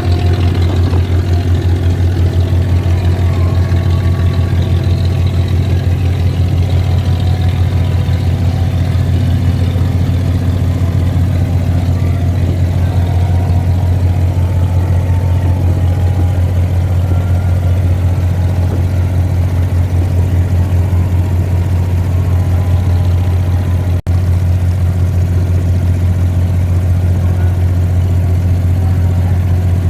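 Diesel engine of an abra water taxi running steadily at cruising speed, a loud low drone with a fast even throb. It breaks off for an instant about 24 seconds in.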